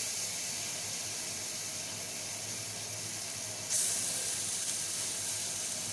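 Butter sizzling on a hot tawa, the sizzle jumping louder and brighter about four seconds in as marinated chicken pieces go into the hot butter.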